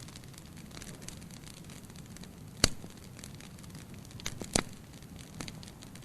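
Campfire burning with a steady low hiss and frequent small crackles, and three louder pops from the burning wood, the loudest about two and a half seconds in and two more close together after four seconds.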